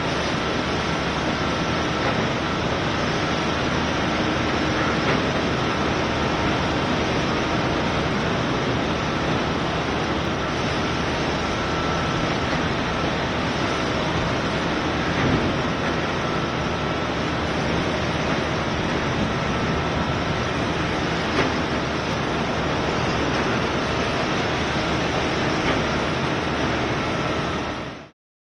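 Strong cyclone wind blowing as a loud, steady rush of noise, which cuts off suddenly near the end.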